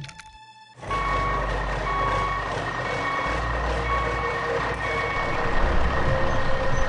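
A heavy vehicle's reversing alarm beeping at a steady pace, about once a second, over loud engine noise, starting about a second in.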